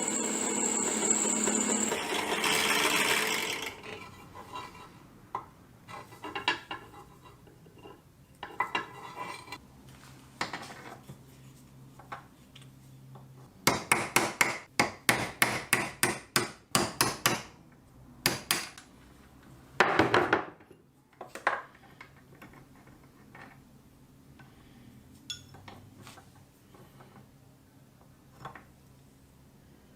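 A power tool runs for the first few seconds and stops, then hand-tool knocks and strikes on the rusted metal pliers: scattered taps, a quick run of about a dozen strikes near the middle, and a few louder blows after it.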